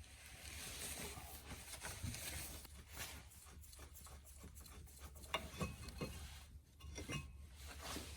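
Irregular light clicks and knocks of hand tools and metal brake parts being handled, thickest in the second half.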